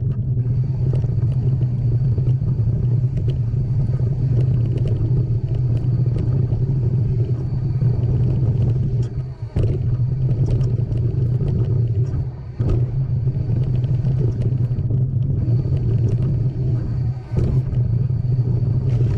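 Steady low wind rumble on the microphone during a mountain bike ride, with scattered clicks and rattles from the bike on the trail and brief drops in the rumble three times.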